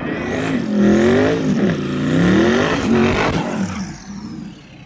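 Twin-turbo Dodge Demon's Hemi V8 at hard throttle, its pitch swooping up and down several times, then fading away near the end.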